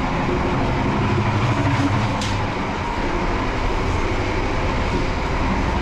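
Passenger train running along the track, heard in the vestibule between carriages: a steady loud rumble and rattle of wheels and running gear. There is one short sharp click about two seconds in.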